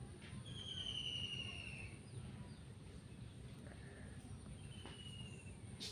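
A bird's whistled call falling in pitch, twice: a long one near the start and a shorter one near the end, over low background noise. A sharp click near the end.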